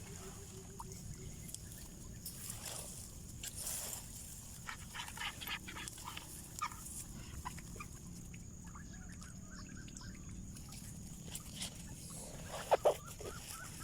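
Faint short animal calls over scattered light clicks and rustling.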